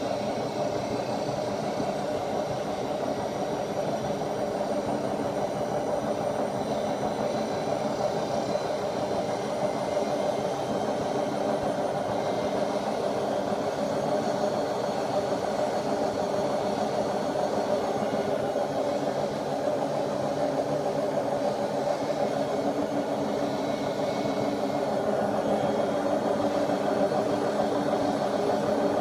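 Bosch Classixx WAA20280 washing machine running with its drum spinning: a steady mechanical drone that grows a little louder near the end. The machine has a damaged bearing.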